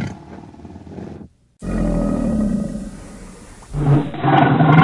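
A big cat roaring: a couple of seconds of deep roaring after a brief silence, in edited pieces, with a louder, different sound cutting in near the end.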